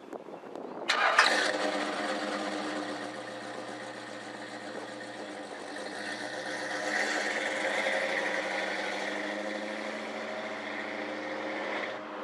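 Car engine cranking and catching about a second in, then running at a steady idle that rises a little in the middle.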